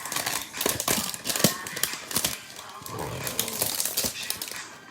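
Trading cards and their cardboard and plastic packaging being handled: a string of sharp clicks, taps and rustles.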